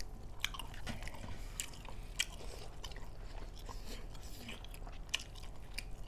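Close-up chewing and mouth sounds of people eating pork curry with rice: wet smacks, bites and crunches at an irregular pace.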